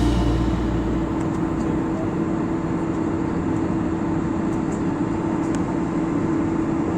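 Steady drone of an airliner heard from inside the cabin: even engine and air noise with a constant hum.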